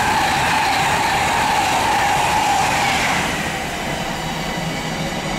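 Class 390 Pendolino electric express passing at speed, its whine falling in pitch as it goes by; about three seconds in it gets quieter, leaving the steady rumble of a container freight train on the neighbouring tracks.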